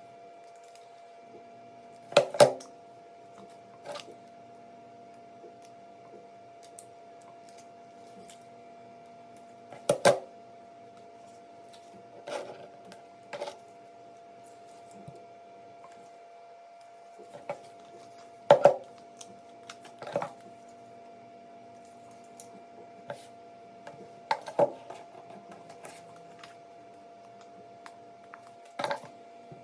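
Small plastic toy parts being handled and snapped together during assembly: scattered sharp clicks and knocks every few seconds, some in quick pairs, over a steady faint hum.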